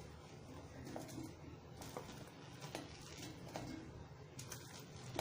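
Faint, scattered light taps and clicks of ingredients and utensils as garlic, ginger and onion are put together for grinding into a spice paste, over a low steady hum.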